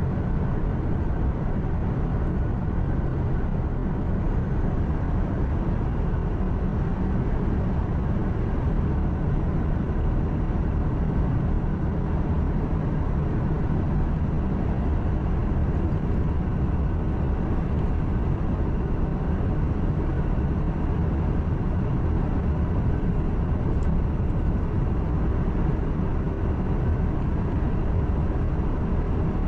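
Truck engine and road noise heard inside the cab while driving: a steady low rumble that holds even throughout, with no sudden events.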